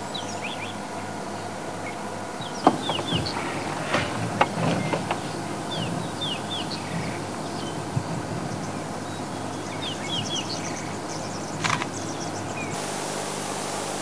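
Small birds chirping in the bush: short, falling notes repeated every second or so, over a steady low background hum, with a few soft knocks.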